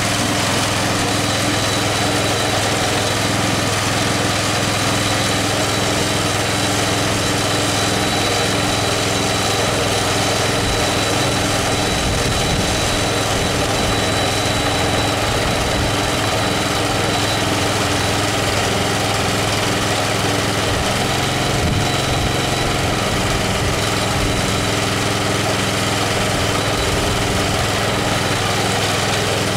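Small gasoline engine running steadily at idle after a cold start, with an even, unchanging note.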